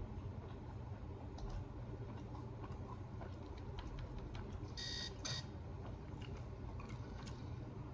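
Close-up chewing with soft wet mouth clicks over a steady low hum. About five seconds in, two short electronic beeps sound in quick succession.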